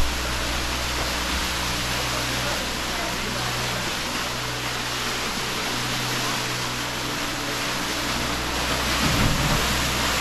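Waterfall pouring into a deep pool, a steady rush of falling water, swelling slightly about nine seconds in.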